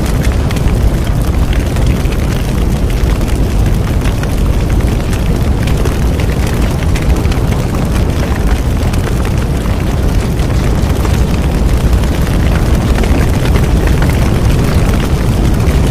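Bonfire burning: a steady low rumble of flames with dense, rapid crackling.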